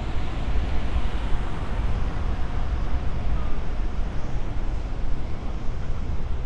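Steady city street ambience: a low, even rumble of traffic with no single sound standing out.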